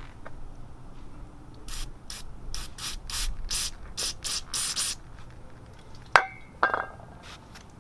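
Compressed-air blow gun fired in about ten short puffs in quick succession, blowing out a clogged carburetor main jet, followed by two sharp clicks.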